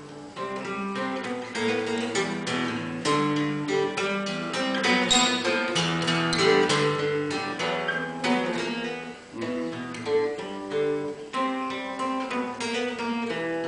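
Acoustic guitar played without singing, a run of plucked notes and strummed chords.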